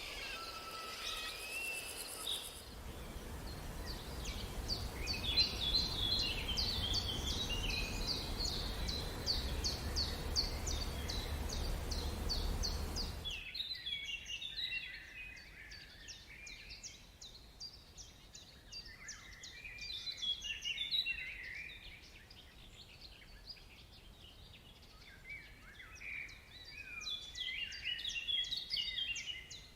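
Several birds chirping and calling over a fast, even high ticking or trilling. A low rumble lies under the first half and cuts off suddenly about halfway through, where the recording changes.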